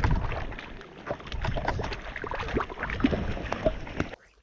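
Water sloshing and splashing with irregular knocks and handling noises on the water, over a low rumble; it cuts off abruptly about four seconds in.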